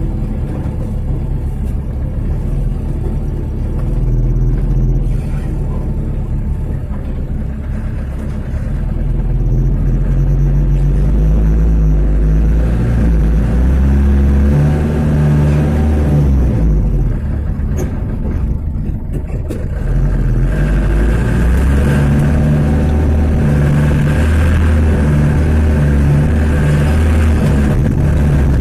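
A 1995 Mitsubishi Canter light truck's diesel engine running under load, its pitch rising and falling with the throttle. About two-thirds through it drops away briefly, then pulls again louder.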